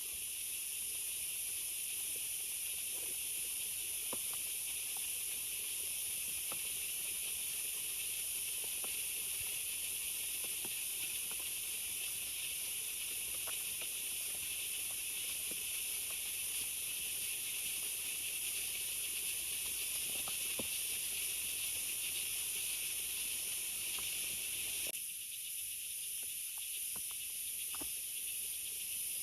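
Heavy rain falling, an even steady hiss, with scattered small ticks.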